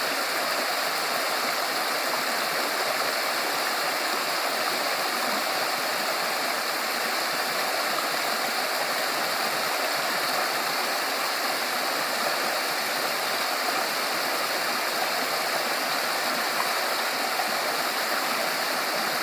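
Mountain-valley stream water rushing and babbling steadily over rocks, a continuous even rush with no breaks.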